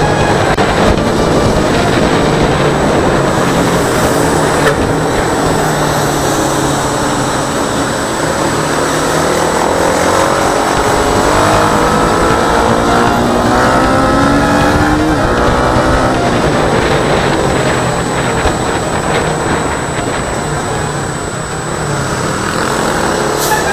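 Yamaha Sniper 150 single-cylinder four-stroke motorcycle engine running at road speed in traffic, mixed with steady wind and road noise; an engine note rises and falls in pitch around the middle.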